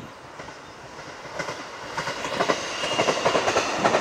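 A JR Shikoku local train approaches and passes close by, its wheels clacking over the rail joints. It grows louder from about halfway in, and a thin high steady whine joins it near the end.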